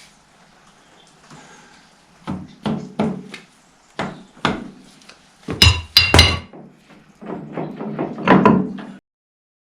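Hammer blows on metal parts of a Fordson Major tractor's final drive, tapping parts into place during a bull pinion rebuild: a series of knocks, with a few louder ringing metallic strikes about halfway through and a quicker run of blows after them, then the sound cuts off suddenly.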